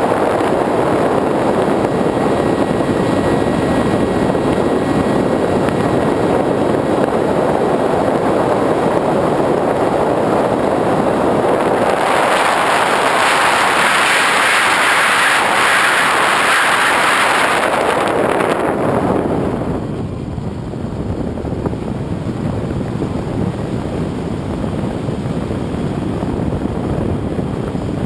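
Radio-controlled airplane in flight, heard from a camera mounted on it: a steady rush of motor, propeller and wind. About twelve seconds in it turns brighter and higher, then drops back and grows duller a little before twenty seconds.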